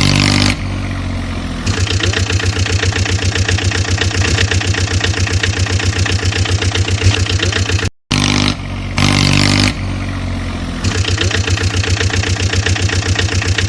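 Tractor engine running: a short stretch of steady engine tone, then a fast, even chugging that goes on for several seconds. About eight seconds in it cuts out for a moment and the same sequence starts over.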